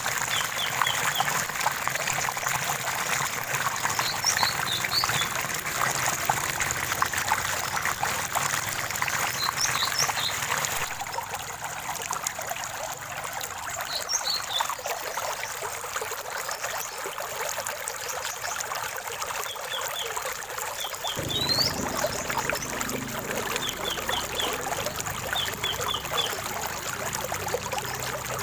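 Running stream water trickling and splashing steadily, with small birds chirping in short quick series and one rising whistle about two-thirds in. The water's sound changes abruptly twice, about a third of the way in and again about two-thirds in.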